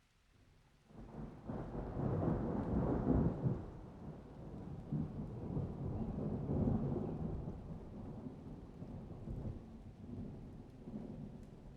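Rolling thunder: a deep rumble that swells up about a second in, is loudest around two to three seconds in, then rolls on more quietly and unevenly.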